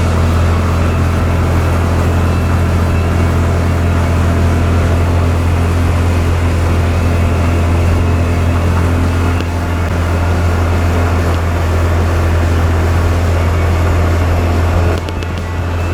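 CF Moto side-by-side's engine running at a steady, even pitch under way, a low drone with no revving. It dips briefly near the end.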